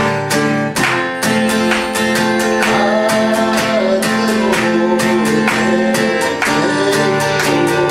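Acoustic guitar strummed in a steady rhythm, with a voice singing a melody over it from about two and a half seconds in.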